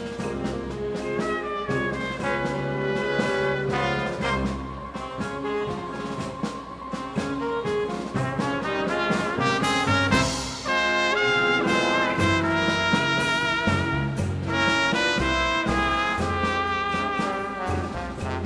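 Live Latin dance band playing an instrumental passage, with trumpets and trombones carrying the melody over steady percussion. The band gets louder about ten seconds in.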